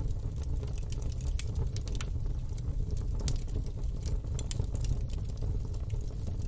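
Wood fire burning in a fire pit, with frequent quick crackles and pops over a steady low rumble.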